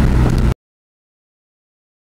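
Cammed LS1 V8 of an F-body Camaro running through Pacesetter long-tube headers, an ORY and a 3-inch Magnaflow bullet muffler with turndown, giving a steady deep low rumble. About half a second in it cuts off abruptly to complete silence.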